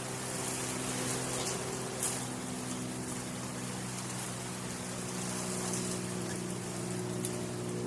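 Hunter Original ceiling fan running, its oil-bath motor giving a steady hum under a rush of air from the turning blades. Two brief ticks sound, about two seconds in and near the end.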